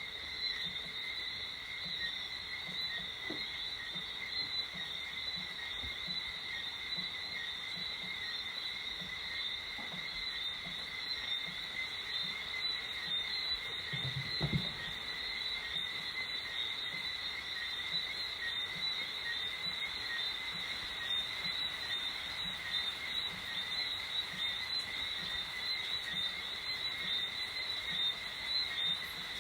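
Evening chorus of frogs: a continuous, high-pitched, slightly pulsing chirping in two steady pitches. A brief low thump comes about halfway through.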